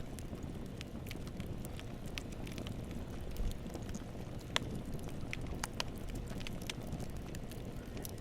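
Campfire burning: a steady low rumble of flames with irregular crackles and pops from the burning wood, a sharper pop about four and a half seconds in.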